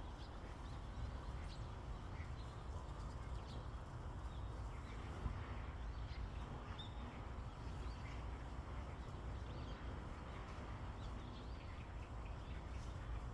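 Faint, scattered short bird chirps over a steady low rumble, with a single brief click about five seconds in.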